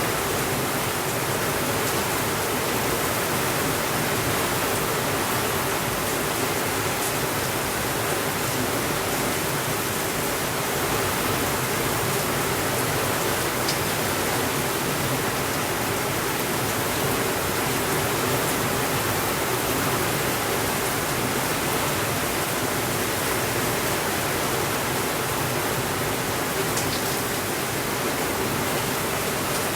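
Steady rainfall, an even hiss of rain with no change in level, with a few faint clicks here and there.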